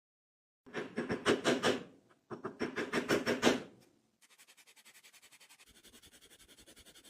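Two bursts of fast back-and-forth scraping strokes, about six or seven a second, typical of hand scrubbing or abrading during a restoration. About four seconds in they give way to a fainter, faster steady ticking.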